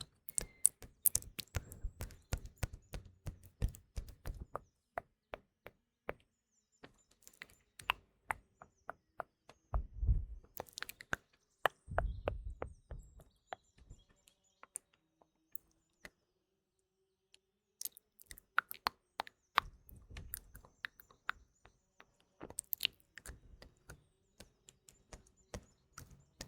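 Close-miked ASMR mouth sounds: irregular wet clicks and smacks of the tongue and lips, coming in clusters with a few short pauses, over faint background birdsong.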